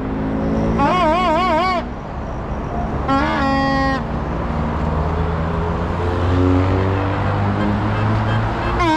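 Vehicle horns sounding in long warbling blasts: one about a second in, one around three seconds in, and another starting at the very end. Under them runs the steady hum of a motor vehicle's engine, its pitch slowly rising and falling.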